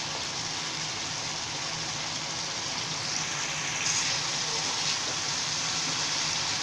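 Pan of parshe fish curry sizzling steadily in its oily masala gravy, slightly louder about four seconds in.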